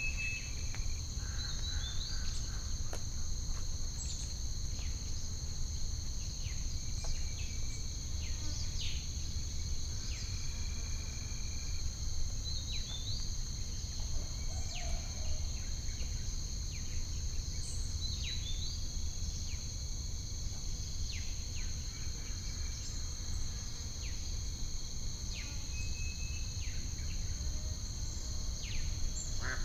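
Nature ambience: a steady high-pitched insect trill like crickets, with many short bird chirps scattered throughout, over a steady low rumble.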